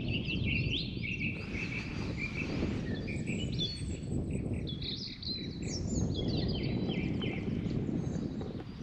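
Several songbirds chirping and trilling, with many short, high calls overlapping throughout, over a steady low outdoor rumble.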